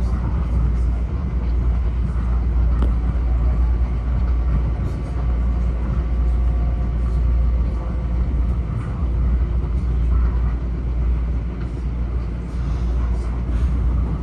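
Steady low rumble of an M7A electric railcar running along the track, heard from inside the car, with faint steady tones above it.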